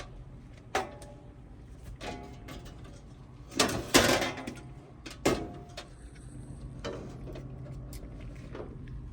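Hand tools and metal parts knocking and clanking against the heat pump's electrical compartment during wiring work, a handful of sharp knocks with a louder clatter around the middle, over a steady low hum.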